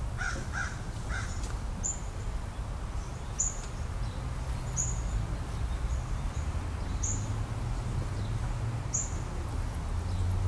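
Birds calling outdoors: a few harsh calls in the first second or so, then a short high chirp repeating about every second and a half, over a steady low hum.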